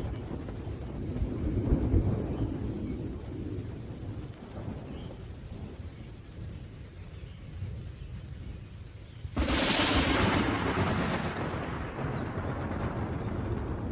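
Thunderstorm with rain: low rolling thunder rumbles and fades, then a sudden loud thunderclap cracks about nine seconds in and dies away into rumbling, with steady rain underneath.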